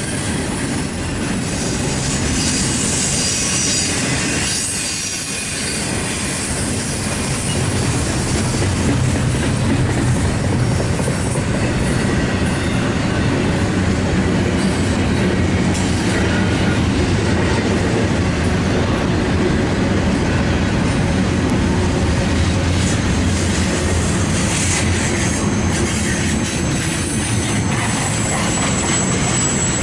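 Freight train rolling past: a continuous rumble of cars on the rails with wheel clatter, and a thin high wheel squeal that grows near the end.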